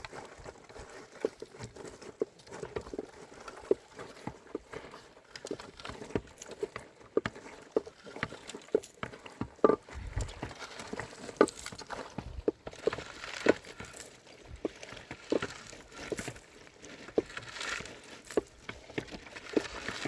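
An irregular series of sharp knocks and taps, about one or two a second, with a soft rustling haze in the second half.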